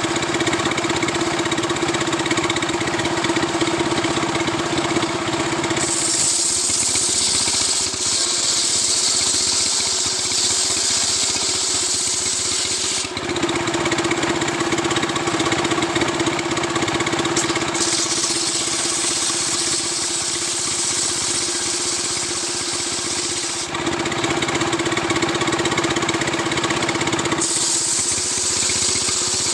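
Stihl two-stroke chainsaw at full throttle, ripping lengthwise through a coconut palm trunk to square it into a beam. It alternates between running free at a steady high pitch and biting into the wood, where the pitch wavers and the hiss of the chain cutting takes over. The cutting spells start about six seconds in, again near the middle and near the end.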